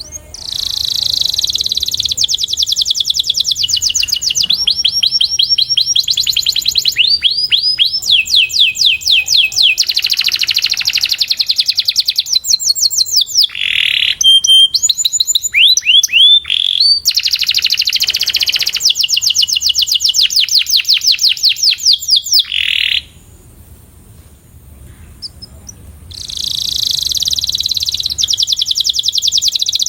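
Domestic canary singing: long series of rapid trills and fast repeated notes, changing from one roll to the next, breaking off for about three seconds about two-thirds through before resuming.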